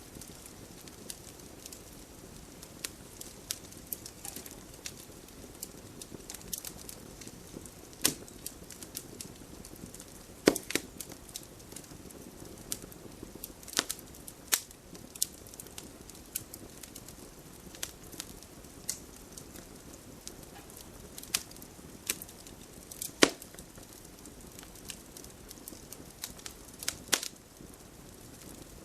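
Wood fire crackling and popping: irregular sharp snaps over a low, steady hiss, with a few louder pops about ten and twenty-three seconds in.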